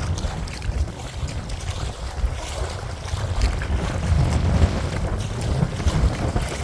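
Gusty wind buffeting the microphone in an uneven low rumble, with light water splashing around a kayak.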